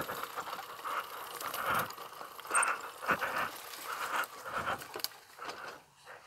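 Footsteps and a pit bike being pushed by hand over rough trail ground, with irregular crunching, scraping and light rattling and no engine running.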